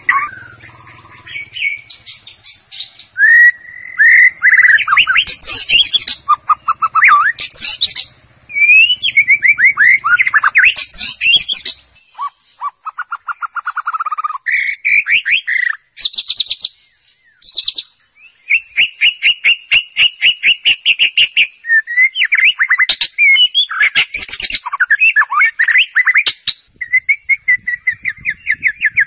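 White-rumped shama (murai batu) singing a loud, varied song of clear whistles and rapid trills, phrase after phrase with short pauses between.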